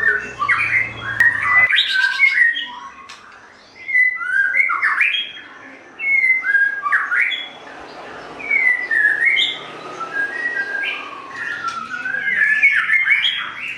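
Male white-rumped shama (murai batu) singing: loud, varied whistled phrases with sliding notes, in bursts broken by short pauses.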